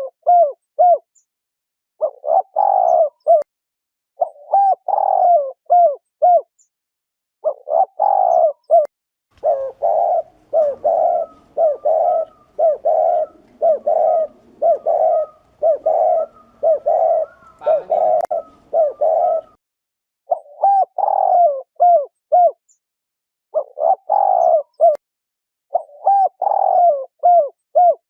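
Spotted dove giving its 'gù' cooing call: short phrases of several quick coos, about one phrase every two seconds. About a third of the way in, it switches to a run of evenly spaced single coos, roughly one a second, for about ten seconds, before the phrased calls resume.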